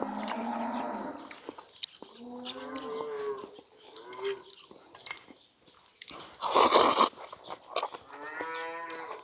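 Cattle mooing twice, a few seconds apart, each call a drawn-out low moo. Between the moos comes a short, loud burst of noise.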